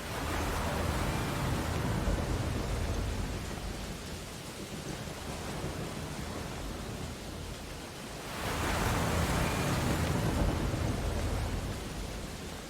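Ocean waves breaking on a beach, two waves about eight seconds apart, each a swell of rushing, hissing surf that fades as it washes back.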